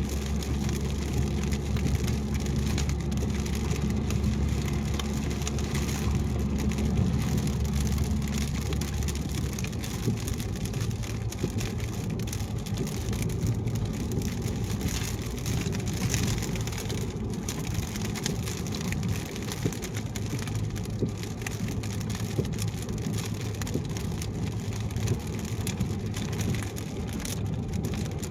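A car driving in the rain: rain pattering on the car and wet tyre noise over a steady low engine and road hum. The low hum shifts to a different note about ten seconds in.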